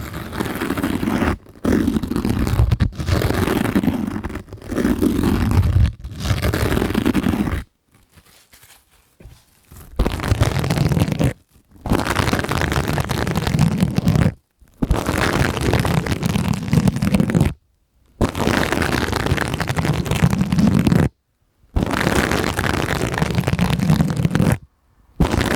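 Sponges rubbed and squeezed against a microphone, in rough scrubbing strokes of one to three seconds with short silent gaps between, about ten in all, and a quieter stretch about eight seconds in.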